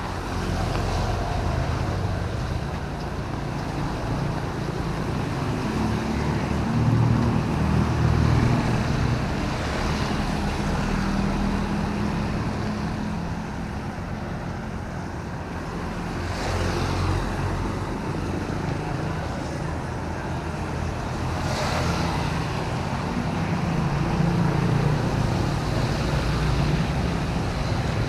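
Road traffic on wet city roads: a steady low rumble of vehicle engines, with a few brief swishes of tyres on the wet road as vehicles pass.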